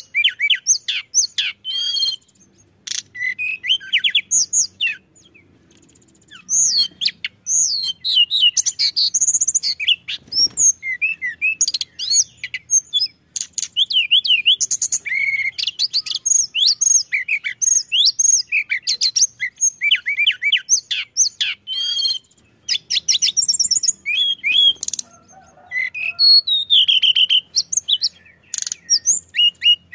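Tledekan gunung (a small Indonesian songbird) singing a fast, busy song of high chirps, quick up-and-down whistled notes and rattling trills, with a few short pauses.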